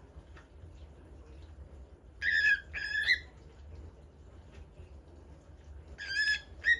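A pepper bird singing: two short phrases of clear whistled notes, the first about two seconds in and the second near the end, each made of two or three notes.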